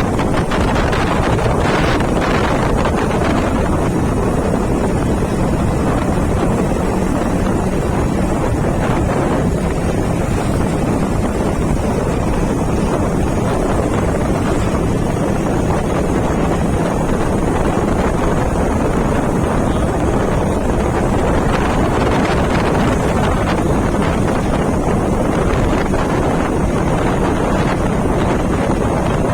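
Wind rushing hard over the microphone of a moving motorcycle, with the engine's steady low drone underneath.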